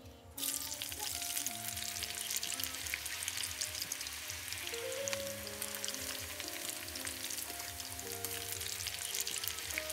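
Jackfruit slices deep-frying in hot oil in a wok, a dense sizzle and crackle that starts suddenly about half a second in as the pieces go into the oil. Background music with held notes plays underneath.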